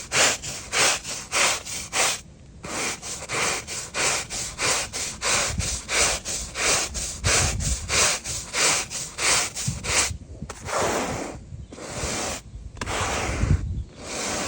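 Stiff brush scrubbing rough, mossy tarmac through thick dirty suds, in quick back-and-forth strokes about three or four a second. About ten seconds in, the strokes turn slower and longer, roughly one a second.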